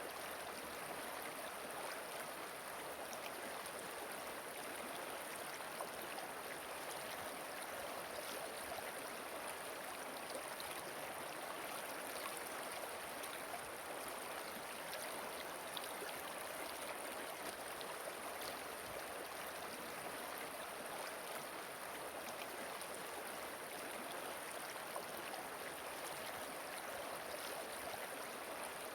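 Steady rush of flowing water from a stream or river, an even wash with no breaks or changes.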